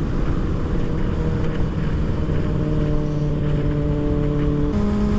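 Kawasaki ZX-6R 636's inline-four engine running at a steady low speed, its pitch creeping up slightly, with wind noise on the helmet or bike microphone. Near the end the engine pitch steps suddenly higher.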